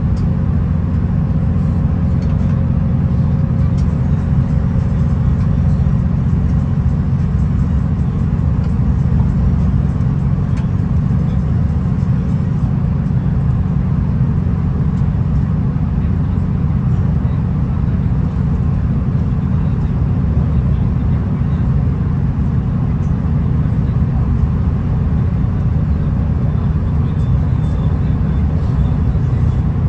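Steady in-cabin running noise of a V/Line VLocity diesel railcar travelling at speed: a constant low drone of engine and wheels on the rails.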